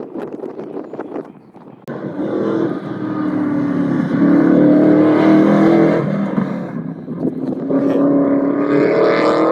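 A truck engine revving hard twice: it cuts in suddenly about two seconds in, climbs and falls, then climbs again near the end. Wind buffets the microphone at the start.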